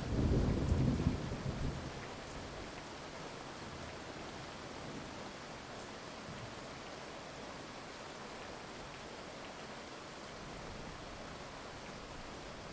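Thunder rumbling and dying away over the first two seconds, then steady heavy rain.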